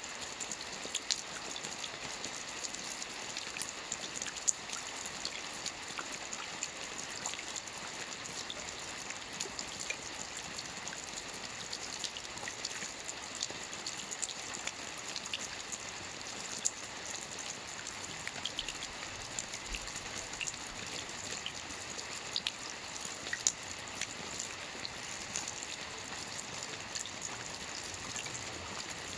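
Soft rain falling on a roof: a steady hiss of rainfall with many small, sharp drop ticks and now and then a louder single drop.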